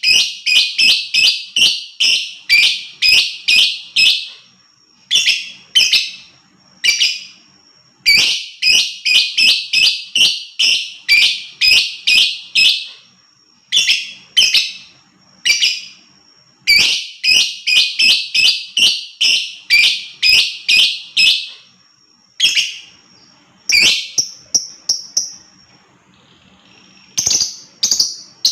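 Lovebird chattering in its 'ngekek' song: shrill, sharp notes fired rapidly, several a second, in runs of up to about five seconds broken by short pauses.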